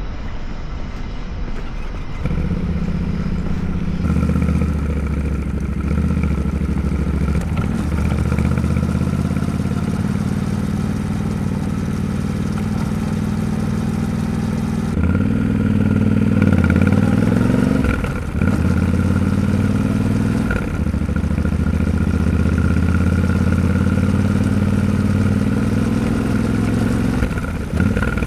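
Yamaha Ténéré 700's parallel-twin engine running under way. The note holds mostly steady, then rises and drops sharply a few times a little past halfway through as the revs change.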